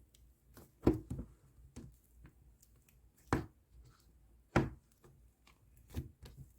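Hands squishing and poking ice-cream-style slime, giving a handful of short, sharp clicks and squelches, the loudest about a second in.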